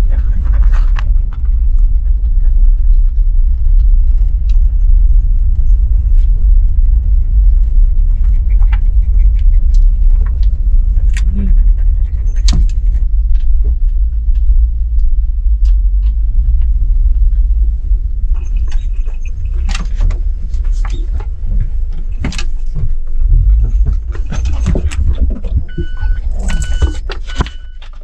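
Kei truck driving: a loud steady low rumble of engine and road noise, with scattered clicks and rattles that grow busier in the second half.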